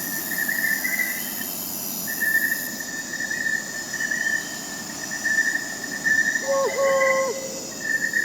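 Steady trilling of crickets and other night insects, several high pitches layered together, with an owl giving a short hoot about three-quarters of the way through.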